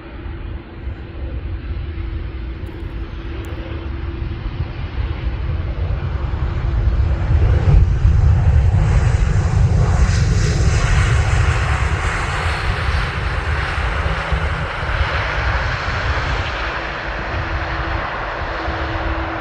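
Boeing 737-800 airliner's jet engines passing close by on landing approach. The sound builds to its loudest about eight seconds in, with a rushing hiss, then slowly fades as the aircraft moves away.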